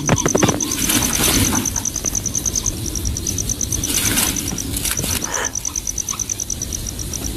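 Rustling and wing-flapping at a coucal's nest in irregular bursts, over a steady high-pitched chirping pulse of about ten beats a second.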